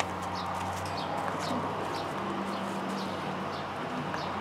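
A small bird chirping over and over, short high calls every half second to a second, over the steady drone of a lawn mower engine.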